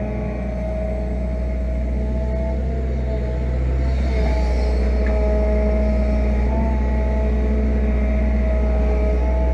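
Fiat-Hitachi EX165 crawler excavator working: its diesel engine runs with a steady low drone and a whine over it that shifts slightly in pitch. The sound grows a little louder about three and a half seconds in.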